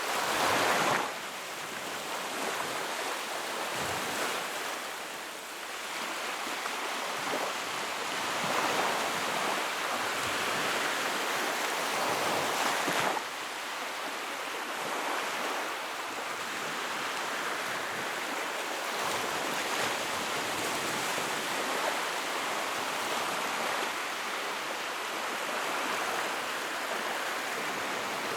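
Wood fire burning in a fireplace: a steady rushing hiss of flame that swells and fades, with occasional sharp crackles.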